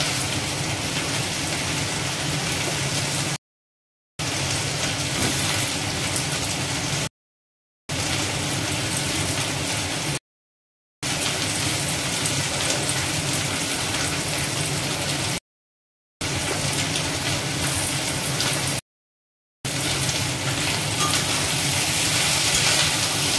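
Steady frying sizzle from pans on a gas stove, where Malabar spinach and potatoes fry in oil in a wok and a mustard sauce simmers. The sound cuts out abruptly to silence five times for under a second each.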